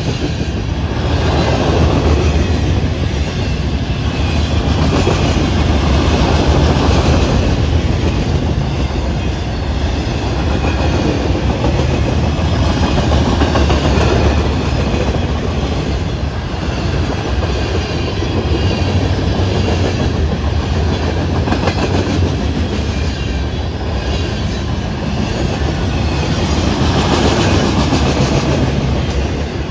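A train passing at close range, its rail cars rolling by in a loud, continuous rumble that swells and eases every few seconds.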